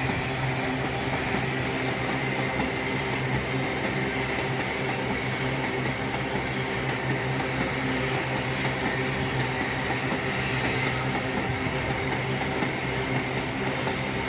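Loaded iron-ore train passing steadily, its heavy cars rolling over the rails in a continuous rumble with a steady low hum.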